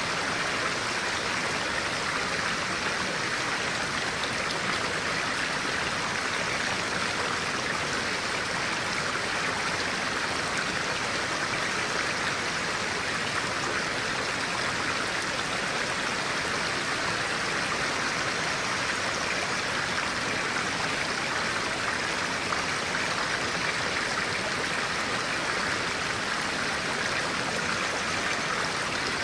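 Clear-water stream running with a steady, even rush.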